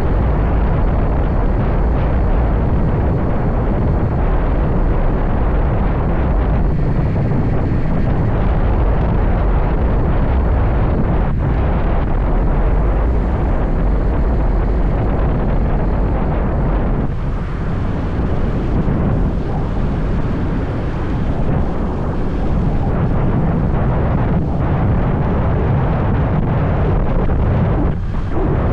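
Wind buffeting the microphone of a moving motorbike: a loud, steady low rumble, with the bike's engine and road noise beneath it.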